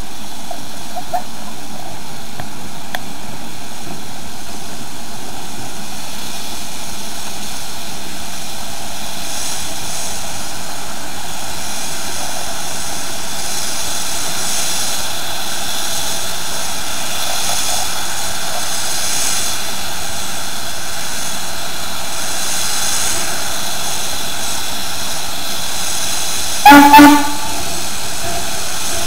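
Steady hiss and rumble around a narrow-gauge Heisler steam locomotive, broken near the end by two short toots of its whistle, the loudest sound here.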